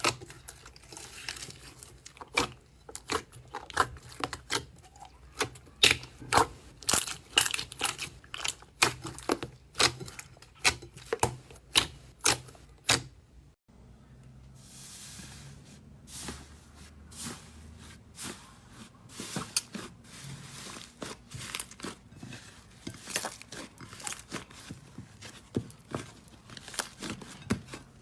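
Slime being squeezed, stretched and poked by hand, giving a run of quick sticky pops and crackles, several a second. The popping breaks off about halfway through, a soft hiss follows for a moment, then the popping resumes, more sparsely.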